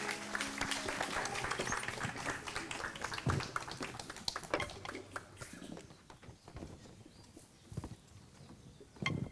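Audience applause that thins out over about six seconds to a few scattered claps, then goes almost quiet.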